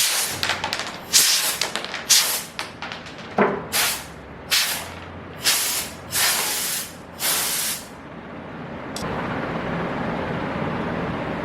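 Compressed air let out in a quick series of short hissing blasts, about seven in a row, over a steady low hum. After the blasts stop, the steady hum carries on alone.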